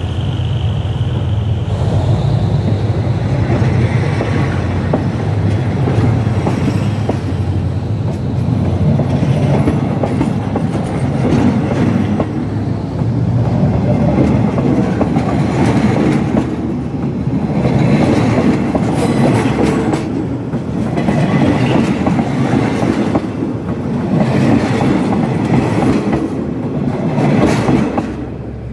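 Railway cars rolling past at close range: a loud, continuous rumble of steel wheels on the rails, with repeated clusters of clattering knocks as the wheelsets go by. The level drops at the very end as the train clears.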